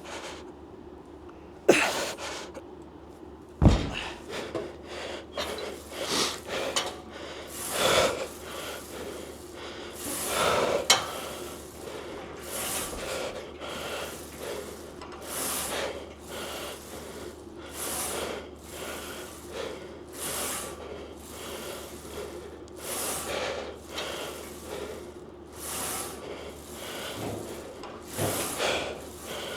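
A person breathing hard and gasping in a steady rhythm, a loud breath about every two seconds, as during repetitions of a heavy lift. Two sharp knocks sound in the first four seconds.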